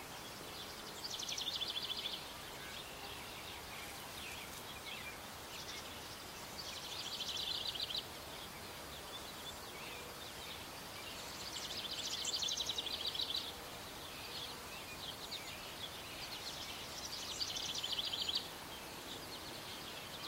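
Bird song: four rapid trills, each a second or two long, that build up and then cut off sharply, repeating about every five seconds over a quiet outdoor background.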